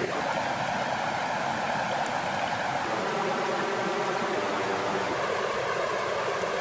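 Steady rushing of flowing water, an even wash of sound with no clear rhythm or pauses.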